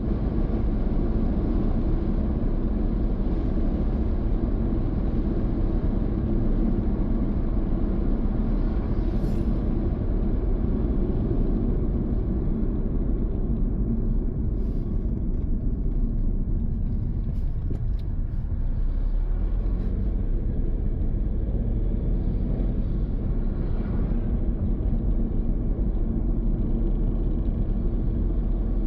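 Car driving along a road: a steady low rumble of engine and tyre noise, with a few faint clicks around the middle.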